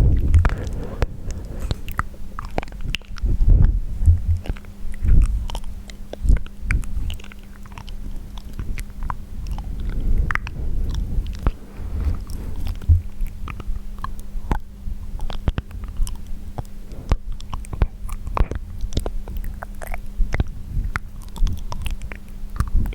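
Wet mouth sounds: a dense run of quick tongue and lip clicks and smacks, with deeper thumps now and then.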